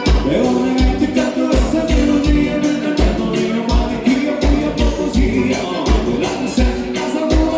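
Instrumental passage of live gaúcho dance music, led by accordion, with bass and drum keeping a steady beat.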